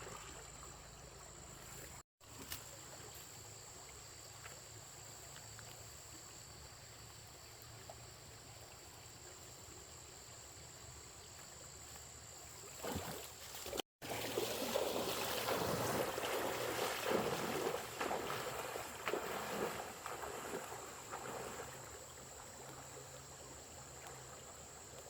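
Running water, louder and more churning through the middle of the stretch. It breaks off to silence for an instant twice, at edit cuts.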